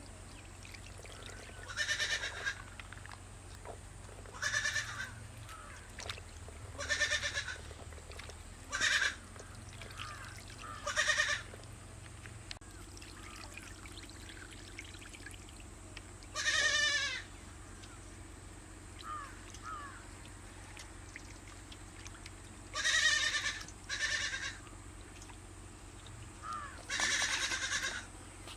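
A goat bleating again and again, about nine separate calls with pauses of a few seconds between them.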